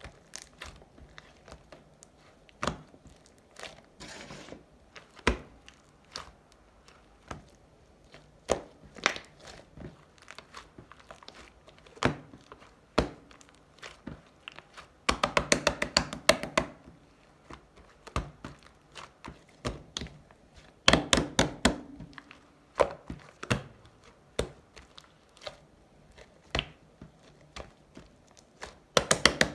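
Slime being squeezed and pressed by hand, giving sharp irregular pops and clicks, with two runs of rapid popping about halfway through and again a few seconds later.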